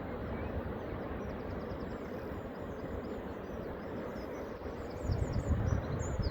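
Steady rush of sea surf, with small birds chirping high above it in quick runs of repeated short notes from a couple of seconds in. A louder low rumble comes about five seconds in.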